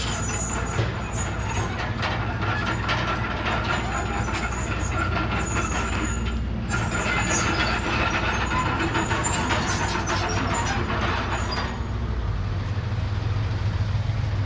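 Komatsu D31PX crawler bulldozer at work: its diesel engine runs steadily, under a layer of metallic clatter and squeaks from the moving machine that falls away about twelve seconds in.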